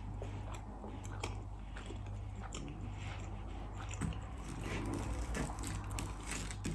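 Close-miked eating: a person biting and chewing food, with many small irregular clicks and crunches. A steady low hum runs underneath.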